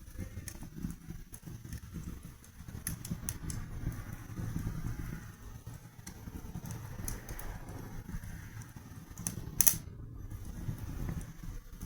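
Wood fire burning in a fireplace: a low steady rumble of flames with scattered crackles and pops, the loudest pop coming near the end.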